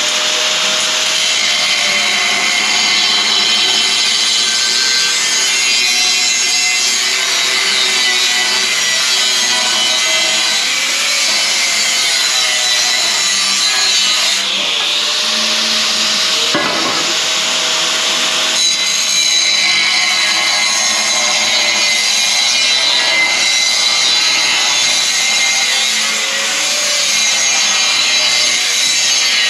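Power tool cutting and grinding steel exhaust pipe, with a continuous harsh high-pitched noise whose whine rises and falls as the tool is loaded, while a muffler is replaced with straight 3-inch pipe.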